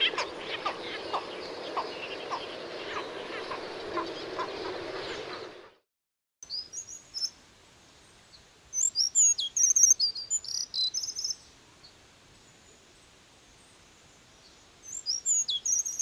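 A dense, noisy wash of wetland sound full of short, sharp calls, cutting off about six seconds in. After a brief silence come thin, high-pitched chirps of a plumbeous water redstart in three quick runs.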